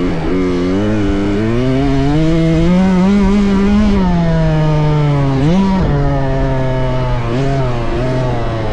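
Dirt bike engine revving up and down as it rides, with a quick sharp rev and drop about five and a half seconds in.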